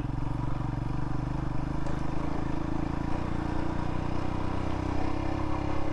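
Royal Enfield Himalayan's single-cylinder engine running steadily while the motorcycle is ridden at an even speed.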